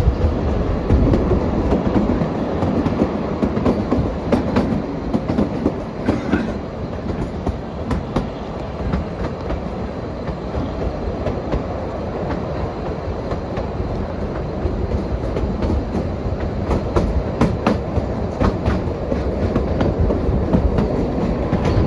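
Kalka–Shimla narrow-gauge toy train running: a steady rumble of wheels on the track with scattered clicks and clacks.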